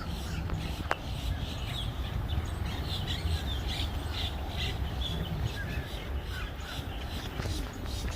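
Birds calling outdoors, many short calls overlapping, over a steady low background rumble; a single sharp click about a second in.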